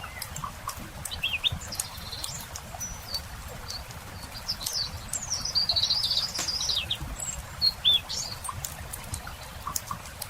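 Small songbirds chirping and twittering in short bursts, busiest in the middle, over the light snapping crackle of a wood campfire and a steady low rumble.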